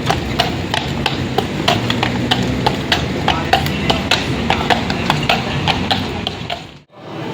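A string of sharp, irregular taps or clicks, about three or four a second, over a steady low street hum; the sound cuts out abruptly near the end.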